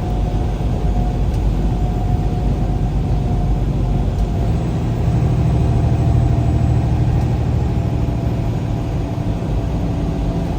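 Steady engine and road noise inside a moving vehicle: a low rumble with a faint steady whine, growing heavier from about halfway through before easing off near the end.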